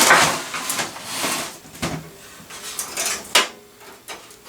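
Small hard objects clattering and scraping as they are rummaged through by hand, with a sharp click a little over three seconds in.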